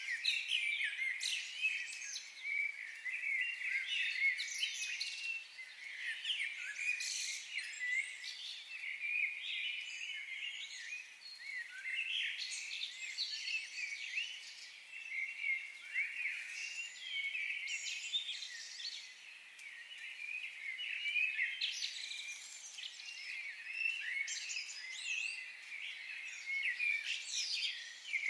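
A chorus of many songbirds singing and chirping at once: continuous overlapping high chirps, whistles and trills.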